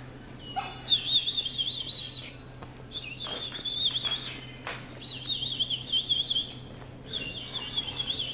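A songbird singing a high, rapidly warbling phrase about a second long, repeated four times with short gaps. A single sharp click comes about halfway through.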